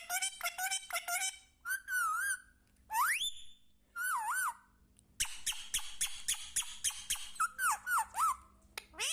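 Pet parrot whistling and squeaking: wavering whistles, one whistle rising steeply about three seconds in, and quick runs of short squeaky calls near the start and again around the middle.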